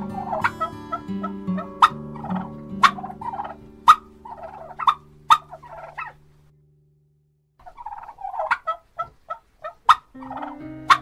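Domestic poultry calling in repeated short bursts over soft background music. The music fades out about six seconds in, and after a second of silence the calls start again.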